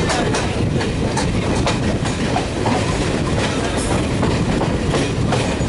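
WAP7-hauled Chennai Duronto express train running through a station at speed. Its wheels clatter over rail joints and points in irregular sharp clacks over a steady rumble.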